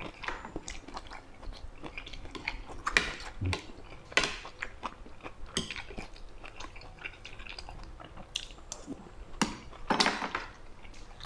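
A person chewing a mouthful of rice and eel curry close to the microphone: wet chewing with irregular lip smacks and mouth clicks, the loudest about three, four and ten seconds in.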